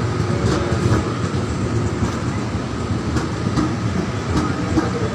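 KRL commuter electric multiple-unit train running past, a steady rumble of wheels on rail with scattered sharp clicks.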